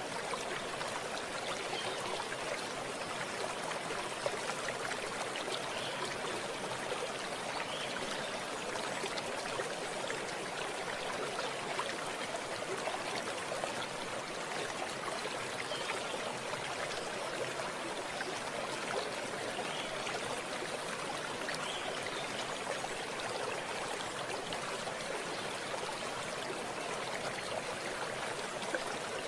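Running water of a stream, a steady rushing with small trickles and splashes.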